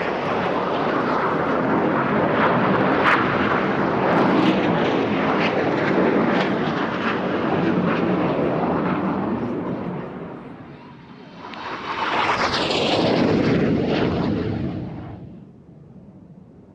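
Jet aircraft of the Red Arrows display team, BAE Hawk T1 trainers, flying past loudly. The noise dips about two-thirds of the way through, swells again with a second pass, then fades away near the end.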